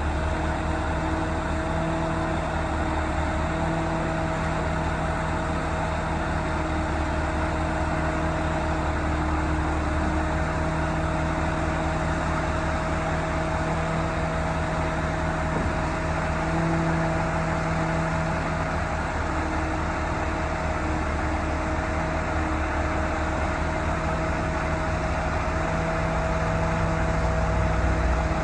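MAN TGS 35.510 truck's straight-six diesel engine running steadily at low revs, with a steady whine over it; the drone gets a little louder near the end.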